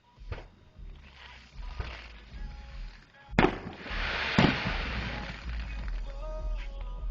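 Fireworks going off: a few faint pops, then two loud sharp bangs about three and a half and four and a half seconds in, followed by a noisy hiss that fades over a second or two.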